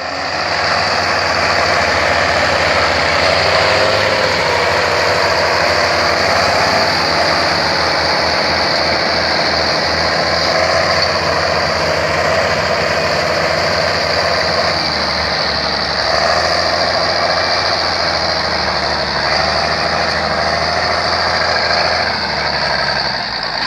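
Boat engine running steadily at an even speed, a continuous hum with noise over it that ends a little before the close.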